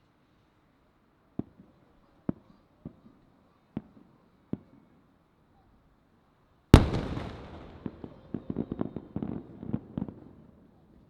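Giant 3-shaku (about 90 cm) Japanese fireworks shell: a few separate sharp pops, then one very loud deep boom about seven seconds in with a long rolling echo. A quick cluster of smaller cracks follows as its small-split stars burst.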